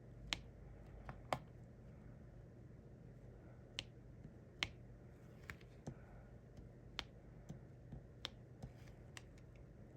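Diamond painting pen tapping resin drills onto the sticky canvas: about a dozen small, sharp clicks at an irregular pace, over a faint steady low hum.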